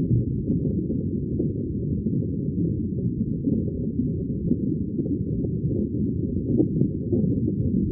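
Underwater ambience: a steady, muffled low rumble of bubbling water with no high sounds at all.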